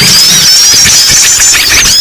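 A loud, dense chorus of many small birds chirping and twittering at once, their high-pitched calls overlapping without a break. This is a bird-lure recording of small songbirds, used to draw wild birds in.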